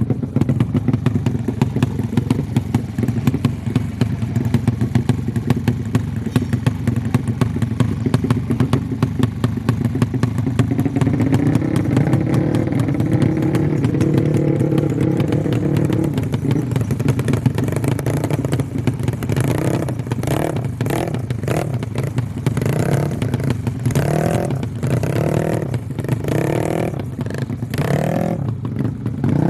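Motorcycle engine running at held revs, its pitch climbing about ten seconds in, then revved in short repeated blips about once a second through the last ten seconds.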